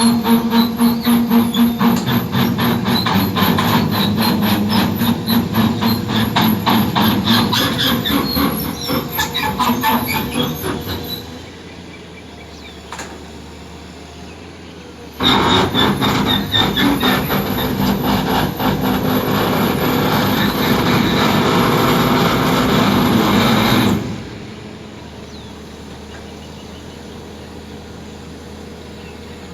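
Amphibious excavator's steel crawler tracks clanking and squealing as the machine moves, in two loud spells: one that fades out about 11 seconds in, and another from about 15 to 24 seconds that stops suddenly. Between and after them only a steady low engine-like hum remains.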